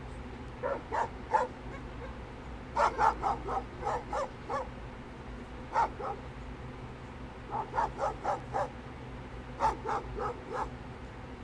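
A dog barking in quick runs of several sharp barks, about five runs with short pauses between them.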